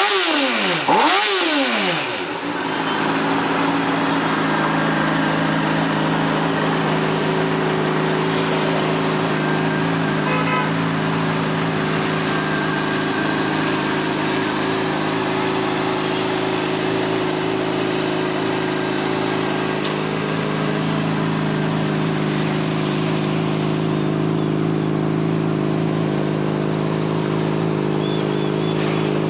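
Honda CBR600RR inline-four engine given a quick rev about a second in, falling back to a steady idle that holds for the rest of the time.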